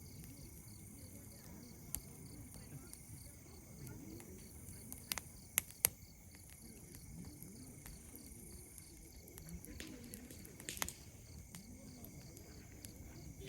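Campfire wood crackling, with a few sharp pops: one about two seconds in, a quick cluster of three around five to six seconds, and more near ten to eleven seconds. Insects chirp steadily underneath, and faint distant voices murmur in the background.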